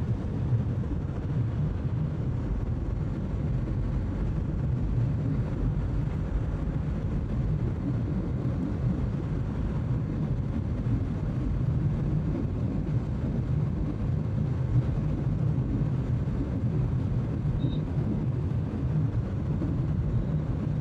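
Bajaj Pulsar NS200's single-cylinder engine and wind rush while cruising at highway speed: a steady low drone with no changes.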